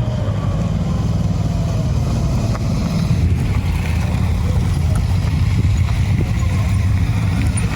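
Motorcycle engine running steadily while riding, with a continuous rush of wind and road noise.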